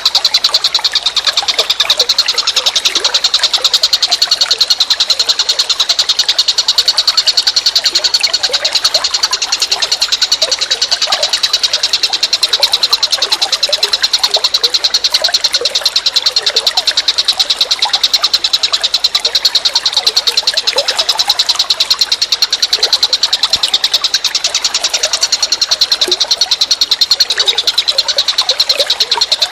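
Chorus of calling animals: a continuous, rapidly pulsed high-pitched trill with scattered short lower chirps.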